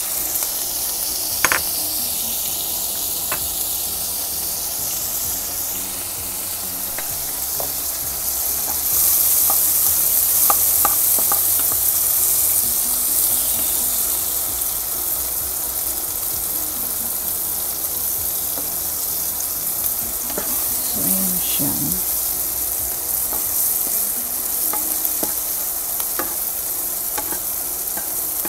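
Diced luncheon meat and mixed vegetables sizzling in butter and oil in a nonstick frying pan, stirred with a spatula that taps and scrapes the pan now and then. The sizzle grows louder for a few seconds about a third of the way in.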